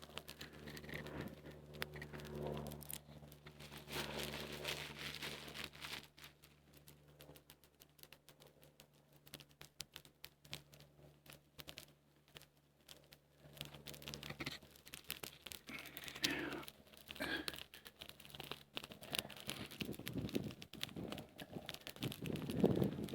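Small campfire of birch bark and twigs crackling in a dense run of small irregular clicks, with rustling and tearing as twigs and bark are handled and fed to it.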